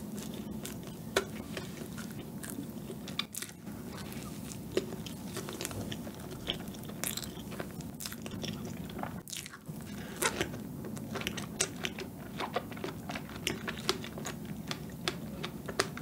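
Close-miked eating sounds: soft chocolate layer cake and fresh strawberries being bitten and chewed, with many small wet mouth clicks, over a low steady hum.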